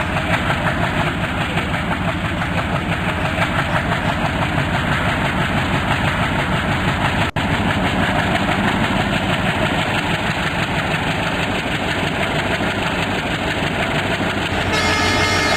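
Railway locomotive engine running steadily, close by, with a momentary dropout about seven seconds in.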